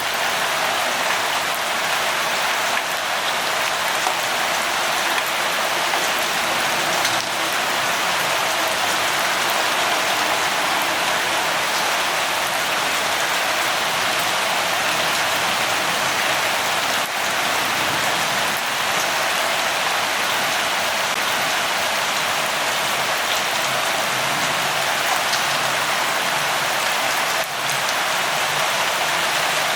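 Steady light rain falling: an even hiss with a few faint drop ticks.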